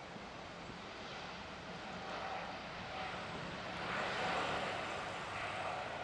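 Jet airliner engines: a steady rushing roar with a faint whine, growing louder to a peak about four seconds in, then easing slightly.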